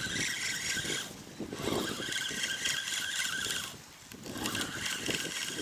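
Fishing reel being cranked to wind in the line: a steady mechanical whirr with scraping, in three spells of winding separated by short pauses.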